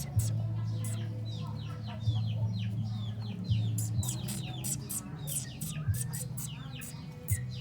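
Nestling birds begging in the nest: a rapid string of short, high, downward-sliding cheeps mixed with sharp clicks, over a steady low hum.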